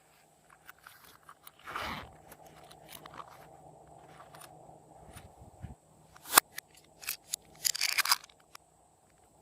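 Slime being squished and kneaded by hand, giving crisp clicks and crackling pops of trapped air. They come sparsely at first and crowd together from about six seconds in.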